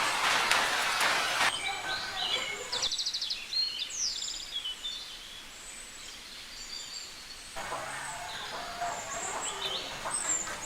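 Small birds chirping, with a quick trill, over a steady rushing noise that cuts off suddenly about a second and a half in and comes back near the end.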